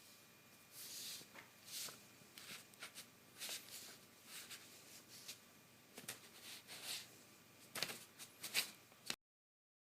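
Faint, irregular short rustling and scratching noises, a few each second, growing louder near the end and then cutting off abruptly.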